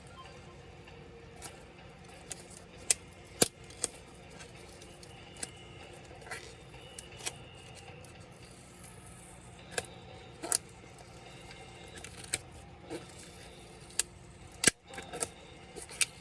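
Irregular sharp clicks and taps of small metal and plastic laptop parts and tools being handled, about a dozen scattered through, the loudest near the start and near the end.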